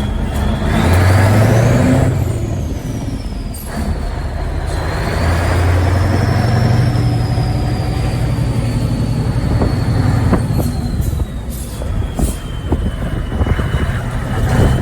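Scania 14-litre DSC14 V8 truck engine pulling away: it builds revs, drops back about four seconds in as a gear is changed, then pulls up again and settles. A faint high whine rises and falls with the revs.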